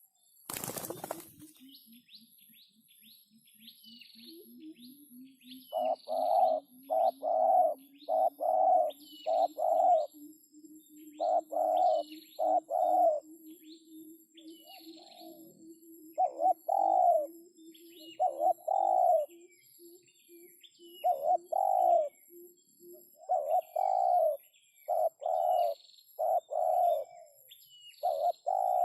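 A spotted dove cooing in repeated phrases of two or three low notes, with small birds chirping higher up and a steady high whine behind. A brief knock sounds at the very start.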